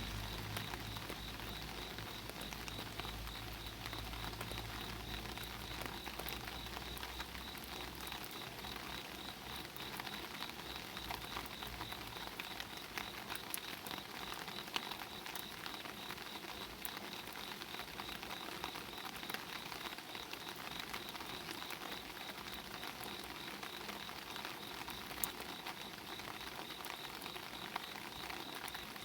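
Steady rain falling on an open umbrella held overhead, with many sharp taps of single drops hitting the canopy. A steady high insect trill runs underneath, and a low rumble fades away over the first several seconds.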